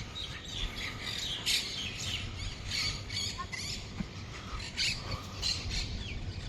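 Small birds calling in many short, irregular chirps over a low, steady background rumble.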